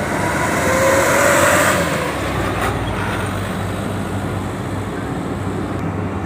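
Steady low engine hum of vehicles at a ferry unloading ramp, with a louder vehicle passing from about half a second to two seconds in and a single sharp click near three seconds.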